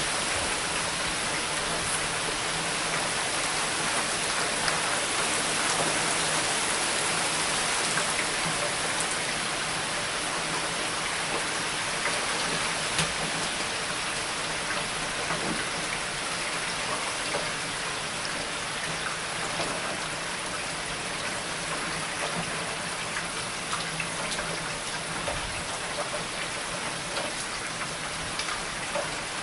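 Steady thunderstorm rain, with many small drop ticks, easing slightly toward the end.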